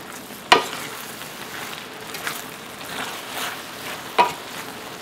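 Dakgalbi (spicy chicken and vegetables) sizzling steadily in a skillet as a wooden spatula stirs it. The spatula knocks sharply against the pan about half a second in and again near the end.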